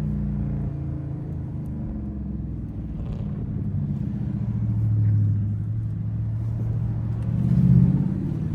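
Muscle car engine running at low revs, its deep note drifting in pitch and swelling louder twice, most strongly near the end.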